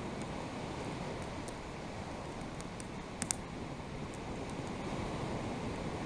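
Wood campfire crackling, with small sharp pops scattered throughout and one louder pop a little over three seconds in, over a steady rushing background.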